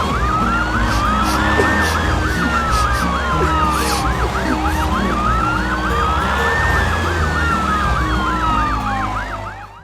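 Emergency-vehicle siren: a fast yelp, several sweeps a second, layered over a slow wail that rises and falls about every five seconds, over music with a bass line. It fades out at the end.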